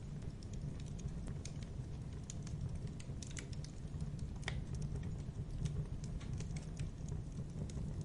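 Wood fire burning in a fireplace: a steady low rumble of flames with irregular crackles and pops, one sharper pop about halfway through.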